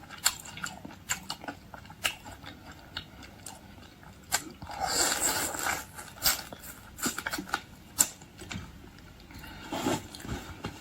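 Close-miked eating: crunchy bites and chewing, with many sharp clicks and crackles and a longer rustling, smacking stretch about five seconds in.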